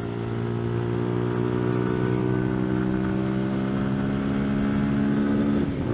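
CFMoto Papio's 125 cc single-cylinder engine pulling steadily under way, its pitch slowly rising, then dipping briefly near the end.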